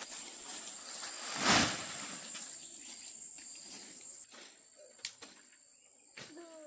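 Insects chirring outdoors in one steady high tone that stops about four seconds in. About a second and a half in there is a brief loud rush of noise, and sharp clicks and knocks come here and there.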